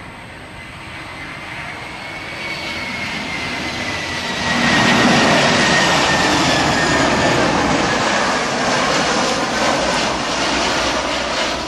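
Fixed-wing aircraft passing close, its engine noise building over about five seconds and then holding loud, with a high whine that slowly falls in pitch.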